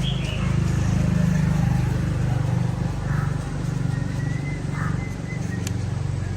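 Small motorbike engine running steadily, a little louder in the first two seconds.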